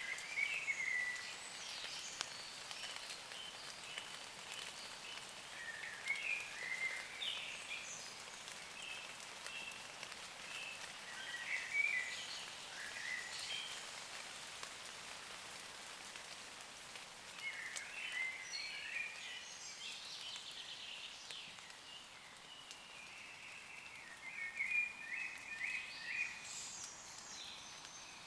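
Gentle rain falling steadily on forest leaves, with woodland songbirds singing short chirping phrases every few seconds over it.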